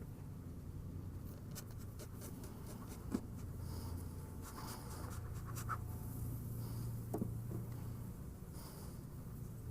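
Scratchy rubbing and scattered light clicks over a low steady hum.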